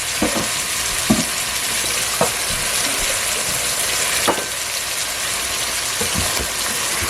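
Onions, garlic and pimento peppers sizzling in hot oil in a pot, with a few short knocks and scrapes of a spoon as they are stirred.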